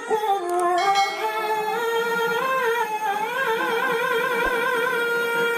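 A man's voice holding a long, ornamented note in melodic Quran recitation, the pitch sliding between steps with a wavering vibrato midway.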